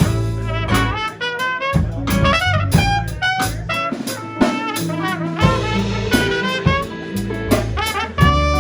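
A band playing a blues-style song, with a brass instrument taking the lead over bass and drum kit.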